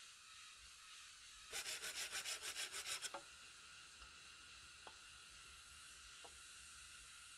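A quick run of about ten rasping strokes of a hand tool on wood, lasting under two seconds, then two faint ticks.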